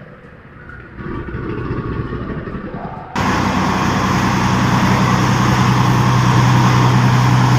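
Vehicle engine running. About three seconds in, it cuts abruptly to a louder, steady engine hum.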